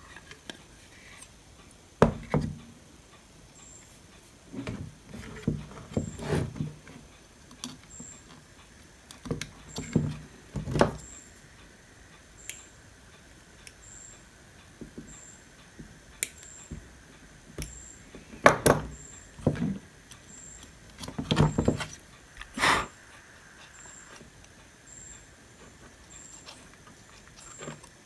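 Parts and hand tools handled on an electronics workbench: scattered clicks, knocks and short rattles in several clusters, the sharpest a few seconds in and again in the second half.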